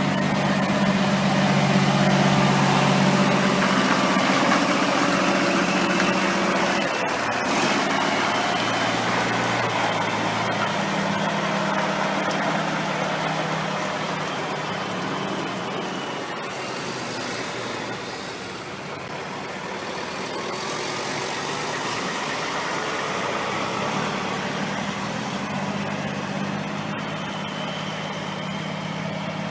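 Heavy diesel semi-truck engine running at a steady idle. Its low hum eases off around the middle and comes back strongly near the end.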